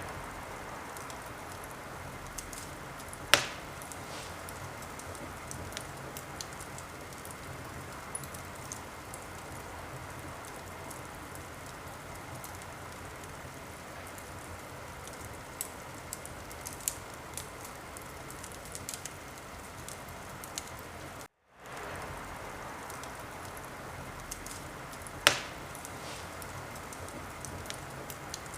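Wood fire burning in a fireplace: a steady hiss with scattered small crackles and two loud sharp pops, one a few seconds in and one near the end. The sound drops out completely for a split second about three quarters of the way through.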